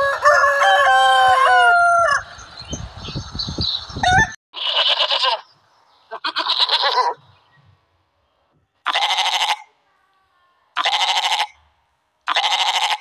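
A rooster crows once, about two seconds long. Then a goat bleats five times in a row, each bleat short and quavering.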